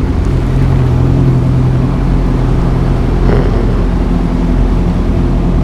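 Motorcycle engine running at a steady cruising speed, a constant low hum under a steady rush of wind and road noise.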